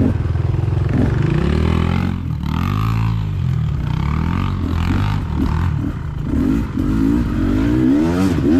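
Dirt bike engine running under way, its pitch climbing and dropping again and again as the throttle is worked, with a lull about two and a half seconds in and a run of quick revs near the end.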